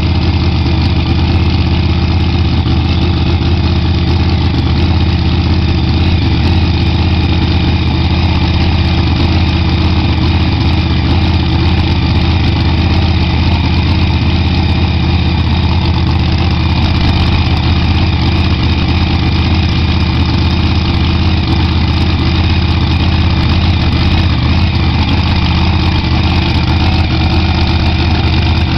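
Supercharged Hemi V8 in a drag car idling steadily and loud, being tested as a newly fitted engine.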